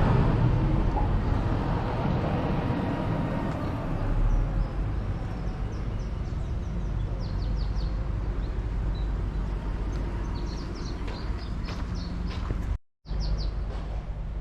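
Outdoor street ambience: a steady low rumble of traffic, with small birds chirping in quick high notes around the middle and again near the end. The sound cuts out for a moment near the end.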